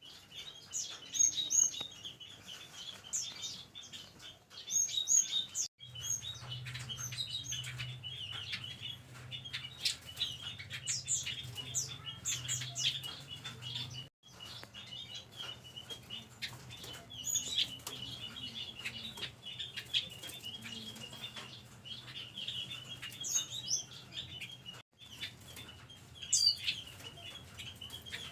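Caged Pekin robins (red-billed leiothrix) calling with many short, high chirps and quick rising notes over a steady chatter of small birds, with wing flutters. A faint low hum sits underneath for much of it, and the sound breaks off briefly twice.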